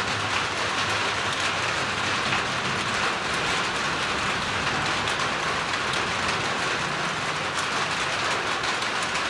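Steady rain falling in a thunderstorm: an even hiss flecked with sharp drop ticks.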